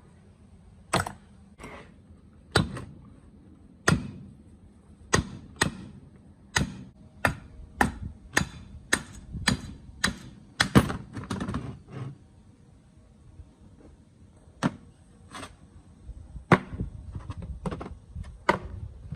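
Hammer striking metal in a run of about twenty sharp blows, irregularly spaced, with a short pause about two thirds of the way through.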